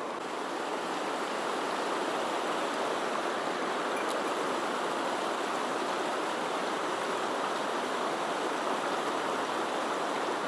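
Headwater mountain stream rushing steadily over rocks, a constant even wash of water.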